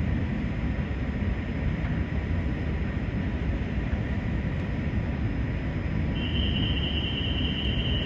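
Kawasaki & CRRC Sifang CT251 metro train pulling into the platform: a steady rumble of wheels and running gear, joined about six seconds in by a steady high-pitched whine.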